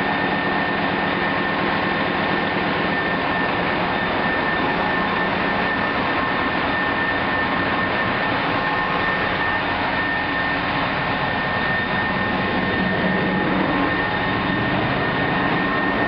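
Engine-room machinery running steadily: a loud, continuous mechanical drone with a steady high whine over it.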